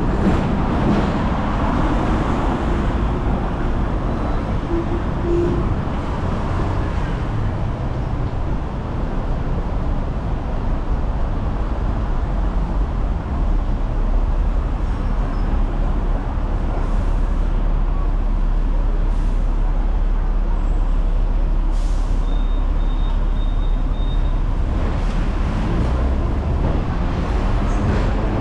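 Hong Kong double-decker electric tram running along its street track, heard from on board: a steady low rumble and rattle, with a low hum joining about halfway through and a brief row of faint high beeps near the end.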